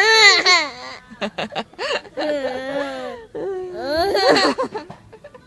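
A young child laughing: high-pitched squeals at the start and again about four seconds in, with a run of short, quick giggles about a second in.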